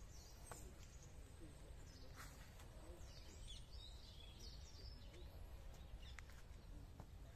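Faint birdsong: brief chirping and warbling phrases near the start and again about three seconds in, over a low steady outdoor rumble.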